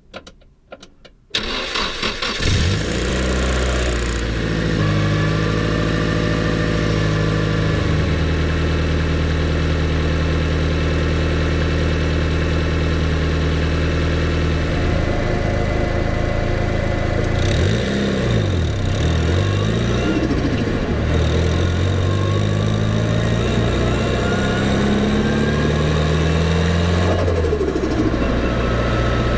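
Nissan Silvia S14's turbocharged SR20DET four-cylinder engine cranking and catching about two seconds in, then idling. The idle drops from a fast idle about eight seconds in, and later the engine speed dips and rises a few times.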